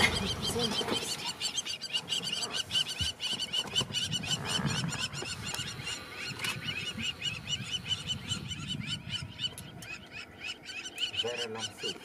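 Birds calling in quick, evenly repeated high notes, several a second, fading away over the second half.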